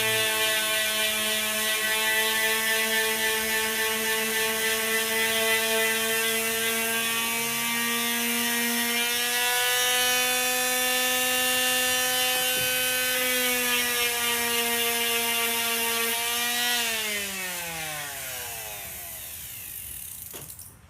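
Handheld power tool motor running at a steady high whine, then switched off about 17 seconds in and winding down with a falling pitch. It is being used to smooth and shape the edges of a dashboard panel.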